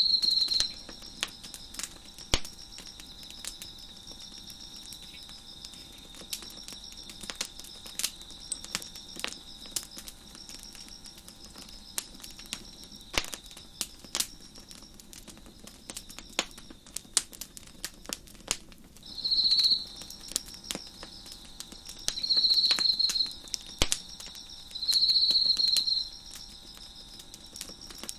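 Wood fire crackling with frequent sharp pops, over a steady high chorus of chirping crickets. A louder cricket trills three times in the second half, each burst about a second long.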